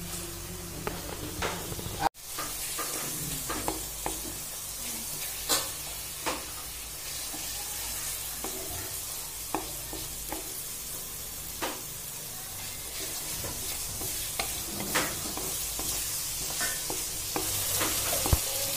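Chopped tomatoes, chillies and onion sizzling in a kadai while a spatula stirs them, with scattered clicks and scrapes of the utensil against the pan.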